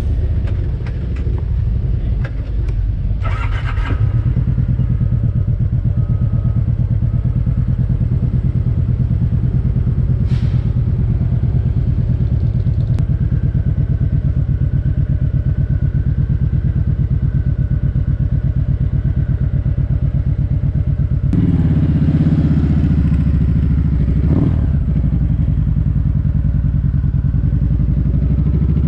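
Motorcycle engine idling steadily. It grows louder and fuller about 21 seconds in, with a short blip of throttle a few seconds later.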